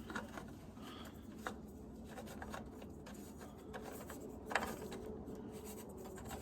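Faint handling noises from hands working on small parts: a few light clicks and rubs, the loudest about four and a half seconds in, over a low steady hum.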